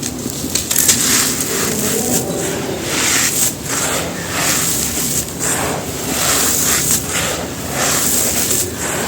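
Clumps of dry, gritty red dirt crumbling and crunching on a floor, in a run of crunchy bursts about once or twice a second.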